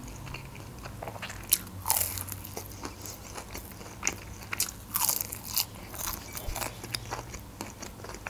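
Close-miked eating: crunchy bites and chewing of food, with the loudest crunches about two seconds in and again around five seconds in.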